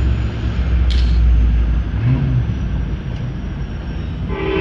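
Low rumble of a departing Amtrak passenger train fading away as it pulls off from the crossing, with a single sharp click about a second in. A train horn starts sounding just before the end.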